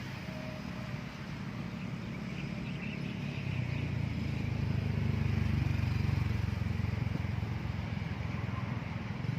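A motor vehicle passing: a low engine rumble that builds from about three seconds in, peaks around the middle, and fades toward the end.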